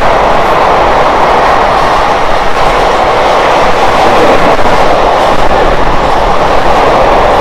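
Freight train passing through the station, a loud, steady noise of its wagons' wheels running on the rails.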